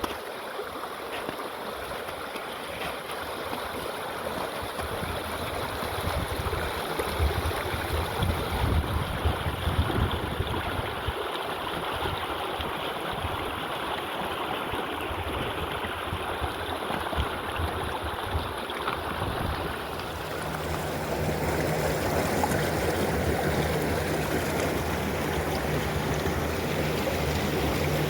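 Water running and gurgling in a small stream, a steady rushing noise that changes character about two-thirds of the way through.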